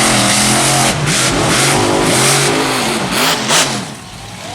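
Monster truck engine revving up and down several times in quick blips, then dropping away about four seconds in.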